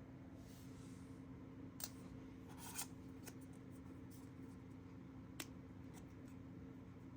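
A few small, sharp clicks and a brief scrape from handling a phone's tiny SIM card tray, over a low steady hum.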